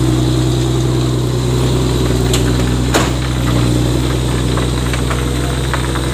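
Heavy truck's diesel engine idling steadily, with a brief sharp click about three seconds in.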